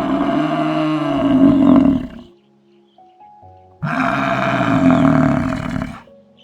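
A large animal calling twice, each a long drawn-out call of about two seconds, over soft background music.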